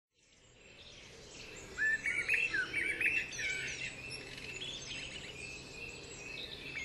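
Birds chirping, fading in from silence, with a busy run of quick, sweeping chirps about two seconds in that then thins out.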